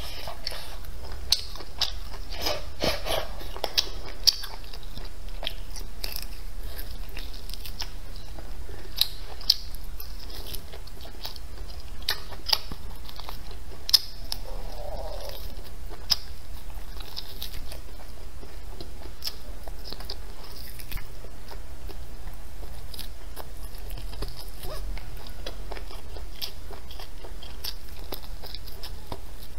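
Close-miked chewing and biting on a cured pig tail, with many small, irregular crunchy clicks throughout.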